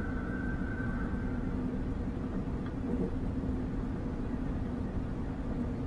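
Passenger train running along the track, heard from inside the carriage: a steady rumble with a thin high whine that fades out about a second and a half in.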